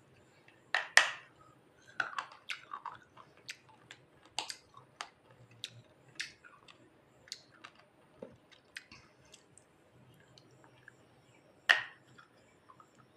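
Person biting and chewing pieces of a baked clay lamp (diya), making sharp dry crunches. There are two loud bites about a second in and another near the end, with lighter crunching between them.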